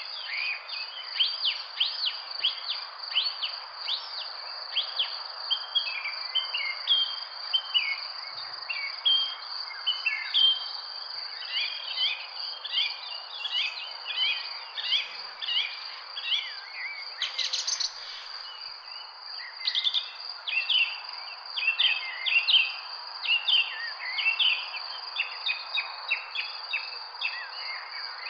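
Many birds chirping in a dense chorus of short, quick calls, over a continuous high-pitched drone and a soft background hiss.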